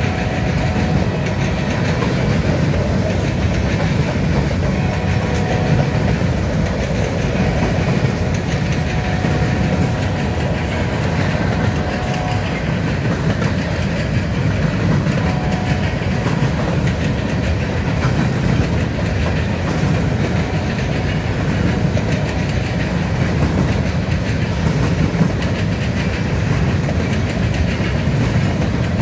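Covered hopper cars of a freight grain train rolling steadily past: steel wheels running over the rails with a continuous low rumble and clickety-clack.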